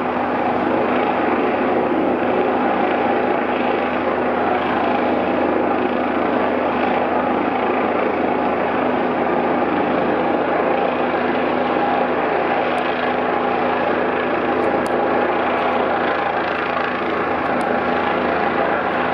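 Helicopter flying overhead: a steady, even drone of rotor and engine with a constant low hum.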